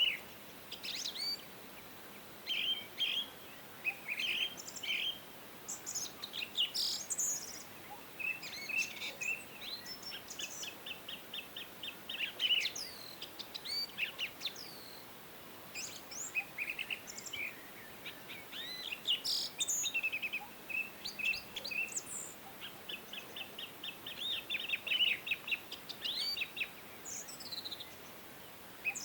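Several songbirds singing and chirping, overlapping, with short whistled notes and a few rapid trills of evenly repeated notes.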